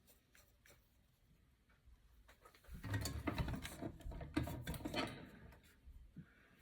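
Handling noise at a fly-tying bench: a few faint clicks, then from about three seconds in a busy two-second stretch of clicking, rubbing and dull knocks from hands working tools and materials, tailing off near the end.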